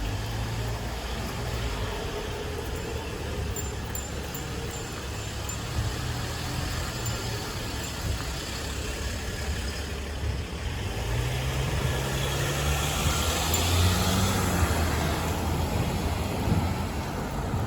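A motor vehicle engine running close by with a low steady hum; about eleven seconds in its pitch rises as it speeds up, and the traffic noise grows louder for a few seconds after.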